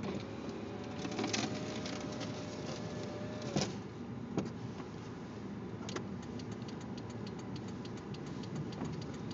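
Steady engine and road rumble of a motor vehicle. A thin steady whine sounds for about the first three seconds, a few sharp clicks or knocks stand out, and a run of quick faint ticks starts in the second half.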